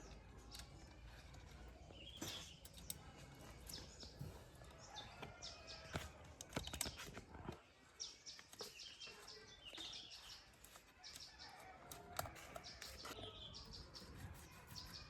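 Faint bird chirps over scattered light clicks and taps, with a low hum underneath that stops about seven and a half seconds in.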